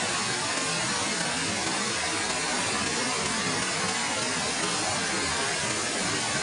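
Waterfall's falling water: a steady, even rush of noise with no change in level.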